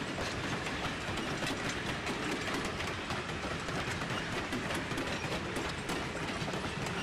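Pullman passenger coaches rolling past at steady speed, their steel wheels clicking over the rail joints amid a continuous rumble of running gear.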